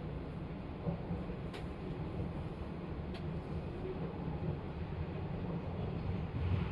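Steady low rumble of a JR 185 series electric train running, heard from inside a carriage, with a few faint clicks.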